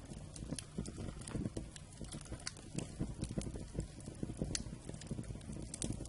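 Wood fire burning, with irregular crackles and pops over a steady low rumble of flame.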